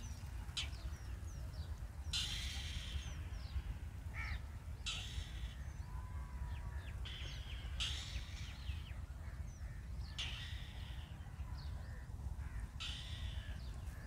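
Birds calling: a harsh call about a second long repeats about every two and a half seconds, with short thin high chirps in between, over a low steady rumble.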